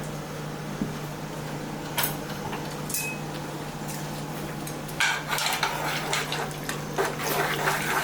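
A utensil knocking a couple of times against a cooking pot, then stirring and scraping along the pot's bottom from about five seconds in, checking for sauce stuck to the bottom. A steady low hum runs underneath.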